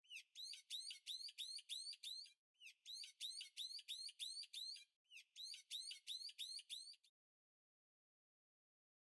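Rapid high chirps, about five a second, in three bursts of about two seconds each, the pattern repeating identically, then stopping about seven seconds in.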